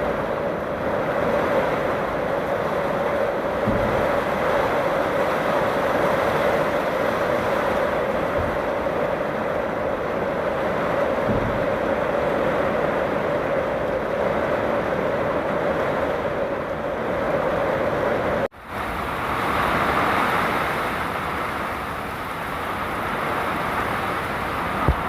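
Summer storm: heavy rain and wind making a steady rushing noise. It breaks off sharply about eighteen seconds in and comes straight back.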